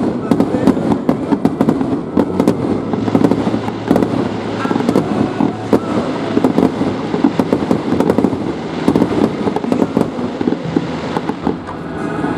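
Fireworks going off in a dense barrage: rapid, overlapping bangs and crackles with no pause.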